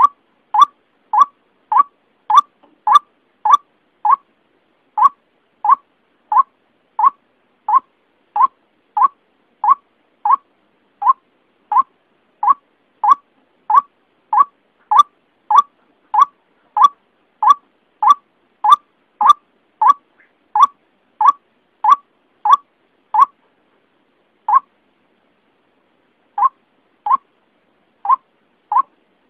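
White-breasted waterhen lure call: short, sharp notes repeated about one and a half times a second, with two brief gaps near the end.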